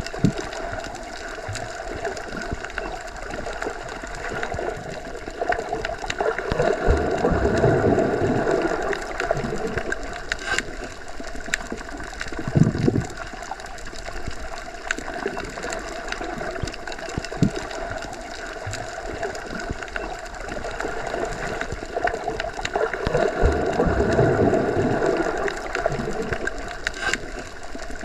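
Deep underwater ambience, as heard submerged in a pool or lake: a continuous low wash of water noise that swells slowly twice, with scattered faint clicks.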